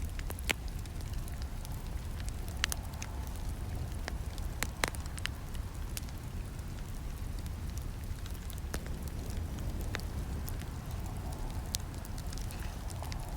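Campfire burning: a steady low rumble of flames with irregular sharp crackles and snaps, a few louder pops about half a second, two and a half seconds and five seconds in.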